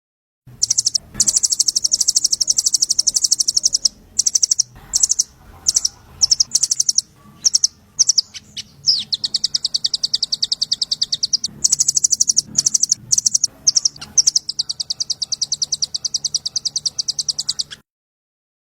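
A small songbird's rapid trilling song, a fast run of high, evenly repeated notes at several a second, broken by a few short pauses. It is a 'trotol' style trill used in masteran recordings for training murai.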